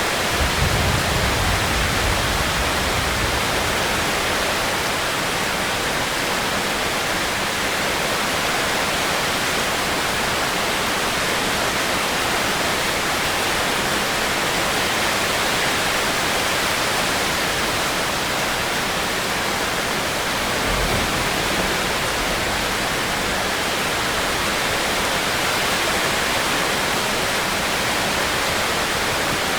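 Steady, even rain, with a brief low rumble near the start and another about two-thirds of the way through.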